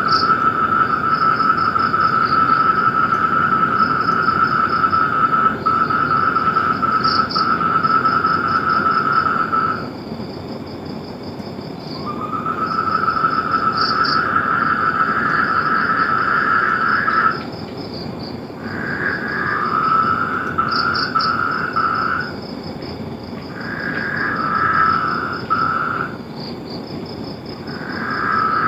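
Frogs trilling: long, steady, even trills that break off about a third of the way through and start again. Later, shorter trills from two callers at slightly different pitches overlap. A higher pulsed chirping repeats throughout.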